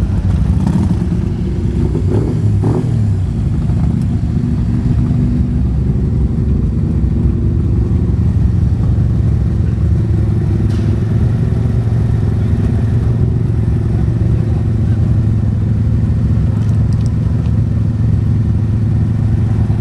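Motorcycle engine running steadily, with a brief change in pitch about two seconds in.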